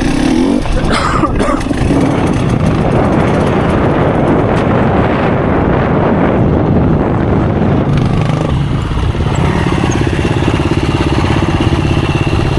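Dirt bike engine running while being ridden on a trail, revving and changing pitch with the throttle; in the last few seconds it settles into a steadier, lower note.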